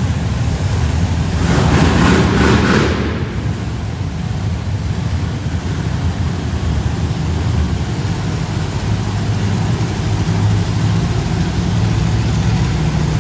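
Monster truck engine running with a deep, steady rumble, with a louder burst of noise for a couple of seconds near the start.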